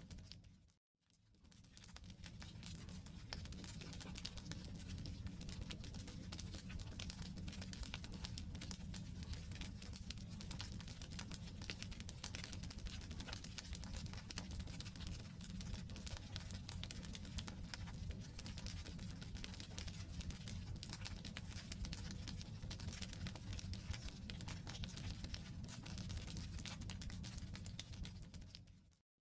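Wood campfire burning, a steady dense crackle of small snaps and pops over a low rumble. The sound fades out to brief silence about a second in, then fades back, and dips out again at the very end.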